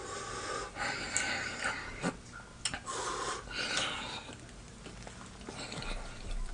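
A man breathing heavily in and out through his mouth in several long breaths, with a few small mouth clicks, reacting to the burn of a very spicy sandwich.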